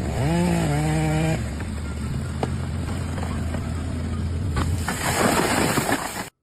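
An engine running steadily, with a pitched tone that rises and holds near the start and a rushing noise near the end, cutting off abruptly.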